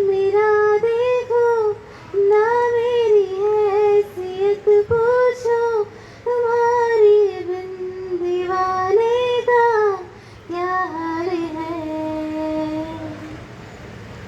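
A young woman singing solo without accompaniment: a melodic vocal line in several short phrases separated by brief breaths, the last phrase ending on a long held note.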